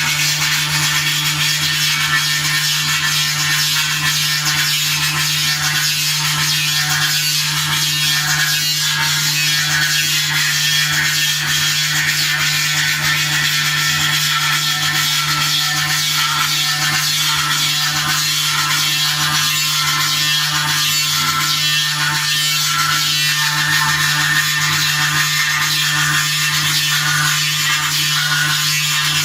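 CNC engraving machine running steadily, a constant hum under a dense, even hiss with no breaks, typical of the spindle cutting a silver plate.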